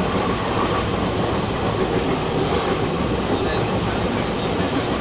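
Himgiri Superfast Express passenger train running at speed: a steady, unbroken rumble of wheels and coaches on the track.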